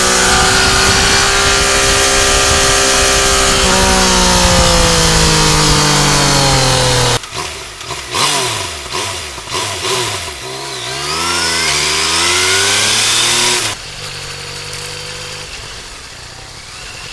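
Yamaha Tracer 900GT's inline-three engine heard through its exhaust fitted with an aftermarket tip. It runs loud and steady with the pitch easing down, then the throttle is cut about seven seconds in. Several rises and falls in revs follow, and near the end it settles to a quieter, steady low note.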